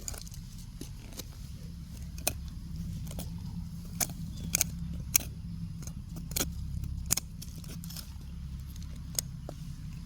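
Scattered sharp clicks and cracks of pieces of wood and debris being handled and broken apart, over a steady low rumble.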